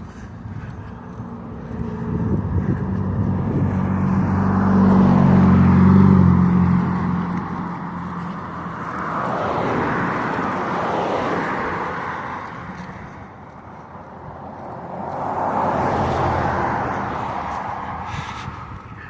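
Three motor vehicles passing one after another. Each one rises and fades, and the first, the loudest, carries a low engine hum as it goes by about five seconds in.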